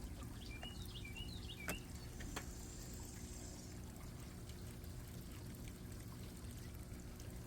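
Faint background during a pause: a steady low hum, with a few short high chirps about a second in and a couple of faint clicks.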